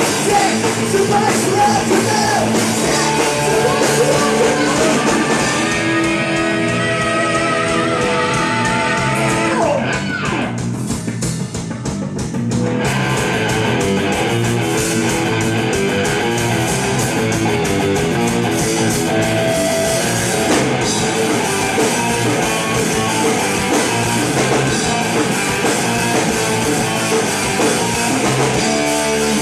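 Rock band playing live: distorted electric guitar and drum kit with singing. The sound turns briefly duller and a little quieter about ten seconds in before the full band returns.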